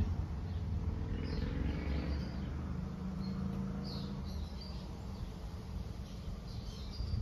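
Small birds chirping in short high bursts, three times, over a steady low rumble.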